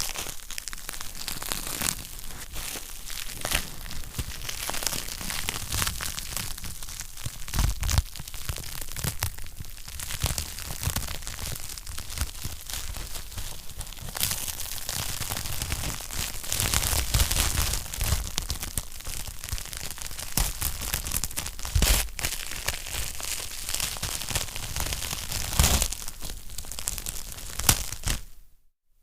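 Wood fire crackling and popping steadily, with dense irregular snaps and a few louder pops. The sound cuts out briefly near the end.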